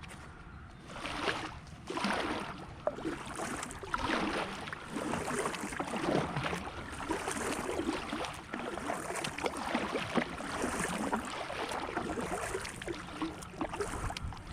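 Kayak paddle strokes, the blades dipping and splashing in the water about once a second as the kayak is paddled along.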